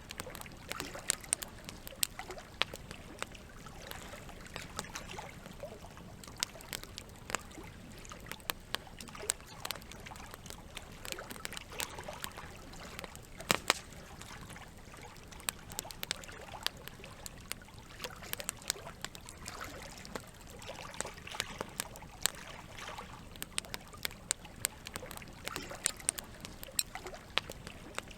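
Campfire crackling, with frequent irregular sharp pops of burning wood and one louder pop about halfway through, over a steady trickle of running water.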